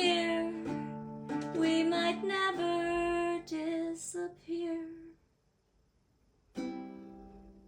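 Singing with baritone ukulele accompaniment on held chords, stopping about five seconds in. After a short pause, one final strummed chord on the baritone ukulele rings out and fades.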